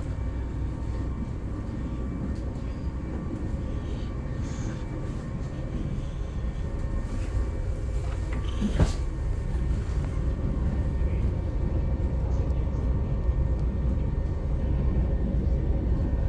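Steady low rumble of a running vehicle, with a single sharp click about nine seconds in.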